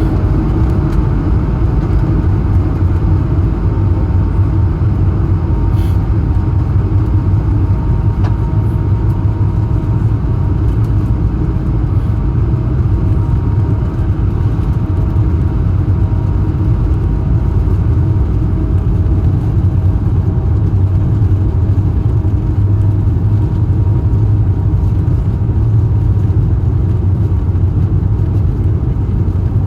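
Airbus A220-100's Pratt & Whitney PW1500G geared turbofan engines at takeoff thrust, heard inside the cabin as a loud, steady, deep rumble with a faint steady hum above it.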